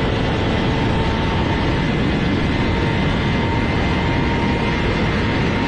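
BMW S1000RR superbike's inline-four engine and exhaust running at a steady, unchanging pitch under a heavy rushing noise, as when the bike is ridden at a constant speed.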